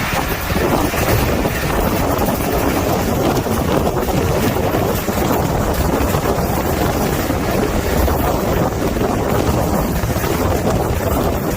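Steady running noise of a moving train, with wind rushing over the microphone.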